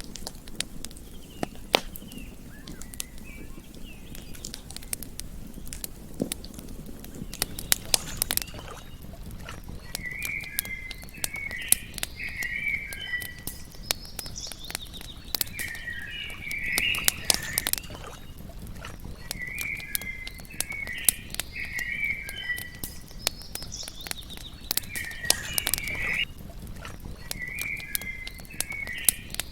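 Campfire crackling with frequent sharp pops over a low rumble, while from about ten seconds in a series of short chirping calls repeats every two to three seconds.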